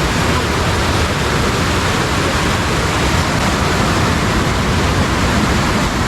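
Fast-flowing water rushing steadily, a stream running high and strong after rain.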